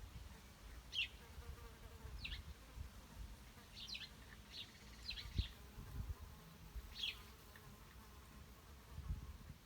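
Small songbirds giving short, high chirps, about eight of them scattered irregularly, each a quick downward sweep, over an uneven low background noise.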